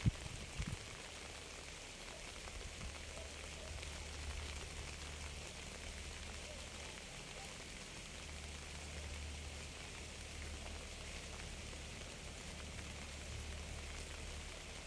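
Steady rain falling: an even hiss of drops with a low rumble underneath, and a few low thuds in the first second.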